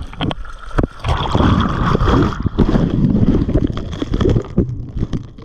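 Surf churning over a handheld GoPro in the shore-break: water rushing and gurgling against the microphone. A few sharp knocks come in the first second, and the churning is loudest from about a second in until near the end.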